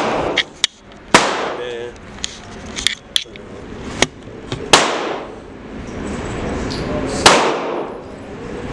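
Gunshots from other shooters at a gun range: three loud reports a few seconds apart, each with a long echoing tail, among lighter clicks and knocks.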